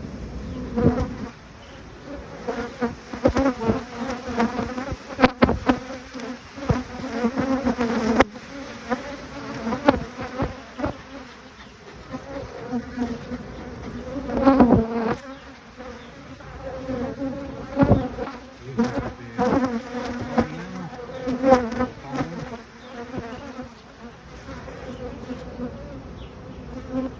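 Honeybees buzzing in an opened hive, a steady hum with louder swells, and a few sharp knocks.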